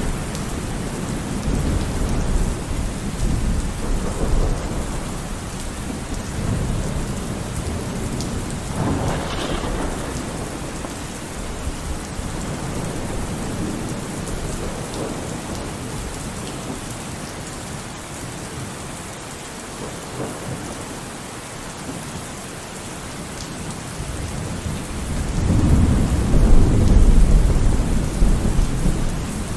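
Thunderstorm: steady rain with rolling thunder, the rumble swelling near the start, again around a third of the way in, and loudest near the end.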